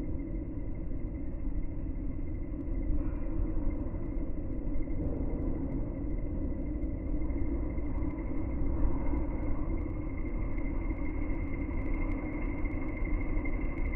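Train arriving at a station platform, heard as a steady low rumble with faint high tones, slowed down in slow-motion playback so it sounds deep and muffled.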